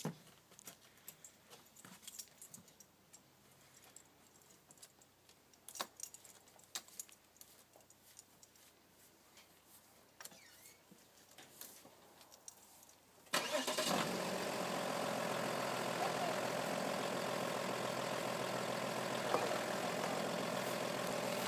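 Car engine starting and then idling steadily. For the first thirteen seconds there are only faint clicks and rustles from handling the key and controls inside the car. The engine then catches abruptly and runs at a steady idle.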